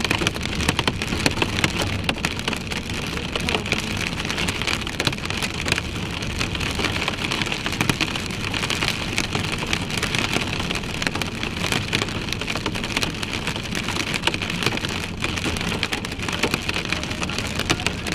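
Heavy rain pelting a moving car, heard inside the cabin as a dense, steady patter of drops on the roof and windshield over tyre and road noise.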